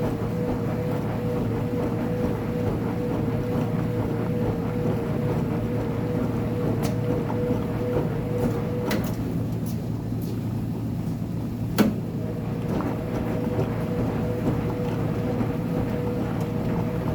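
Uni-Mac UniMat 35 commercial front-load washing machine running through its wash with a load of blankets: a steady motor hum and whine. The whine drops out about eight seconds in, with a few clicks and a sharp knock, then comes back about four seconds later as the drum pauses and starts tumbling again.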